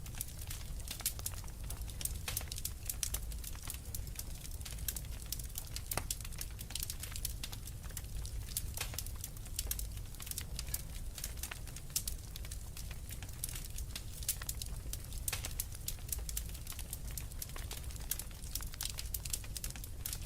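Wood fire burning in a fireplace, with a dense run of irregular crackles and pops over a steady low rumble of flame.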